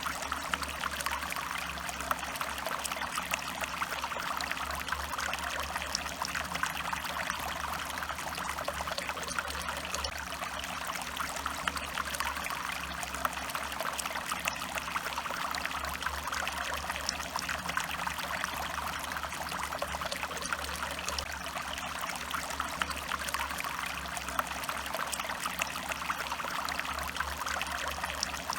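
A small stream of water running and trickling steadily, with a constant splashy burble.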